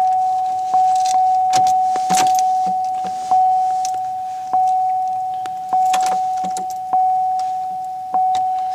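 A car's warning chime dinging steadily, about once every second and a bit, each ding fading until the next, with car keys jangling and clicking over it, as with the driver's door open and the key in the ignition.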